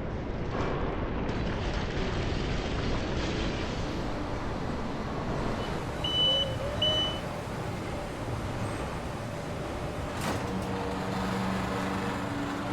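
Steady machinery rumble with two short high beeps about six seconds in. A click near the end is followed by a low steady hum.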